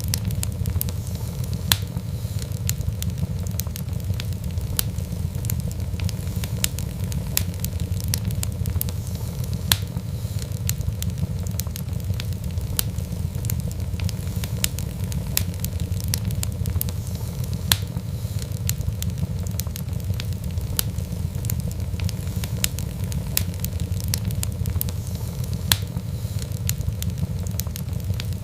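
Wood fire burning: a steady low rumble with frequent irregular crackles and sharp pops, a few louder snaps standing out.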